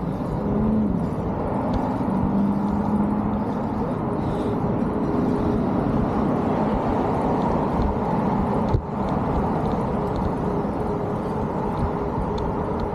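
Steady rushing noise of road traffic and wind heard while riding an electric folding bike beside a road, with an engine-like hum in the first few seconds and a single sharp knock about nine seconds in.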